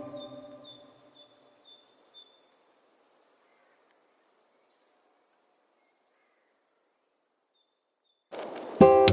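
Small birds chirping in short repeated high notes and falling whistles over soft organ-like background music that fades out. After a few seconds of near silence the birds chirp again, and strummed ukulele music starts near the end.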